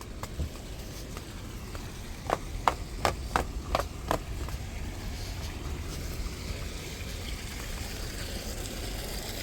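Steady rush of flowing water from a stream, with six light footsteps in quick succession about two to four seconds in.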